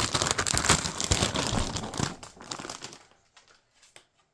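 Plastic packaging being crinkled in the hand: dense crackling for about two seconds, then tapering off to a few faint rustles.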